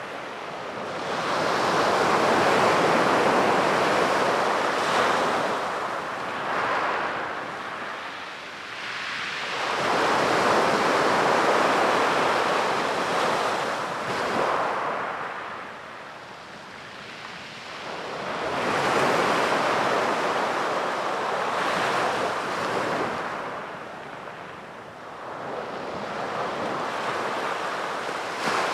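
Sea waves breaking on a beach, the surf swelling and falling back in long surges roughly every seven to nine seconds.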